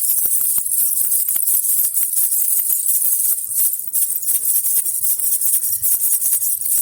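Baby rattle (jhunjhuna) shaken continuously: a dense, steady jingling and rattling of small bells or beads, with a brief lull about four seconds in.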